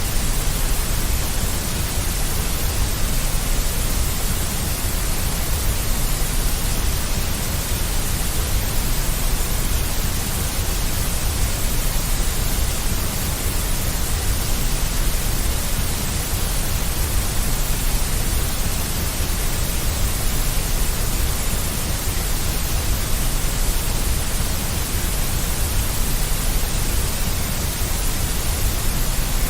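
Steady, unchanging synthetic white noise with a deep low rumble under an even hiss, played as a continuous sleep sound for a baby.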